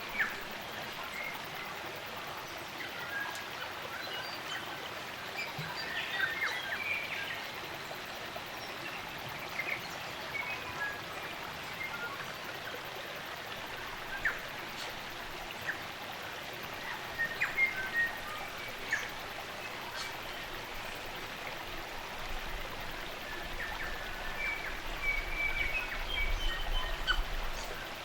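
Spring-fed stream running steadily, with New Zealand native forest birds calling over it in scattered short chirps and brief phrases. A faint low rumble comes in for a few seconds near the end.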